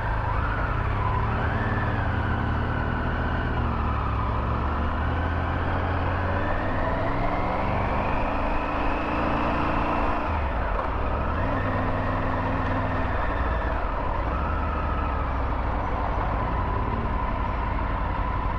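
Triumph Tiger 900 GT's three-cylinder engine running on the move, over a steady low rumble. The revs climb for several seconds, drop about ten seconds in, then pick up again.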